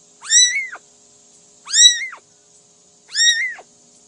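Domestic cat meowing three times, evenly spaced about a second and a half apart; each meow is a drawn-out call that rises and then falls in pitch.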